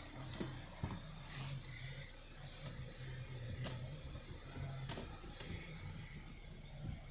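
Hyundai Santa Fe 2.2-litre diesel engine idling: a steady low hum with scattered light ticks and clicks.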